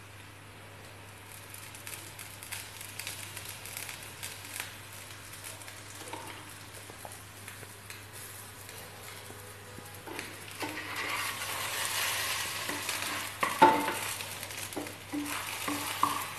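Breadcrumb-coated potato patties shallow-frying in a little oil in a nonstick pan: a steady sizzle that gets louder about ten seconds in. Near the end a wooden spatula knocks and scrapes against the pan as the patties are turned.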